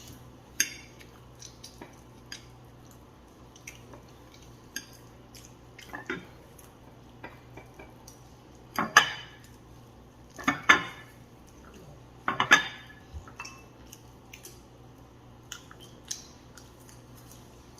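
Cutlery clinking and scraping against dishes in scattered small clicks, with three louder clatters with some ringing about 9, 11 and 12 seconds in.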